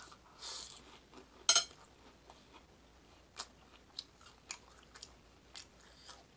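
Close-miked chewing of a mouthful of chili on flatbread: wet mouth clicks and smacks, with one louder crackly burst about a second and a half in.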